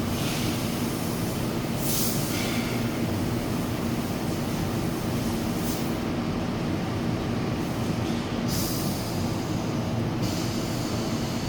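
Machinery running steadily with a constant hum, with hissing spells that come and go several times.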